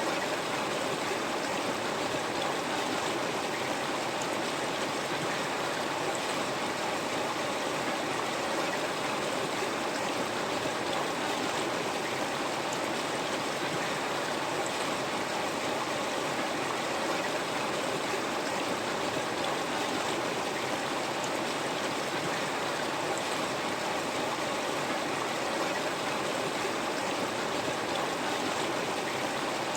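River water flowing steadily over rocks: a continuous, even rushing with a faint gurgle.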